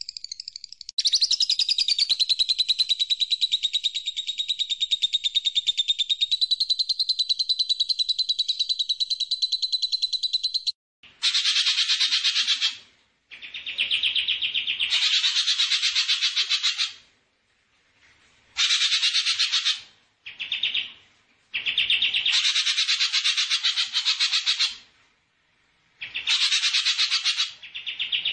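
A songbird's rapid, buzzy rolling trill. One long trill of about ten seconds is followed by a series of shorter trilled bursts with brief pauses between them.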